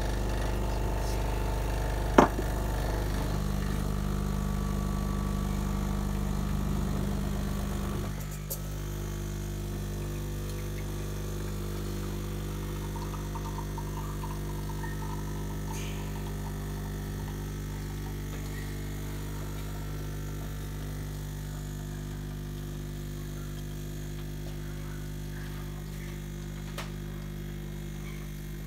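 Home espresso machine's pump humming steadily while pulling a shot, with a sharp click about two seconds in; about eight seconds in the hum drops in level and settles into a lower, steady drone.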